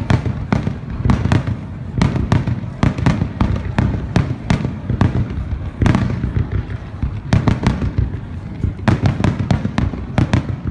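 Aerial fireworks bursting in a dense, irregular barrage, several sharp bangs a second over a continuous low rumble.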